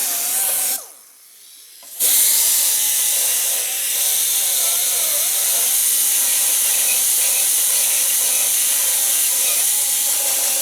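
Power tool with an abrasive cut-off disc cutting the rusted steel of a pickup's chassis rail, taking out the thinned metal back to sound steel. There is a short burst, then a long run with a loud hiss and a whine that dips now and then as the disc bites.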